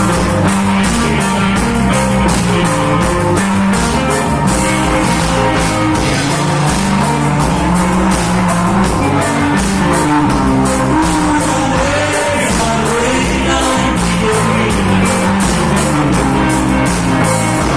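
Reggae band music: a bass line and drums keep a steady beat under guitar.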